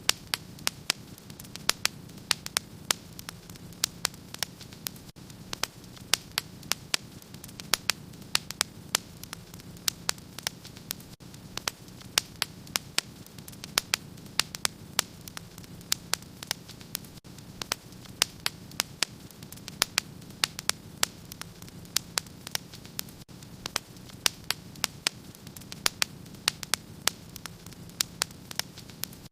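Wood fire crackling in a fireplace: sharp irregular pops and snaps, several a second, over a steady low background rush.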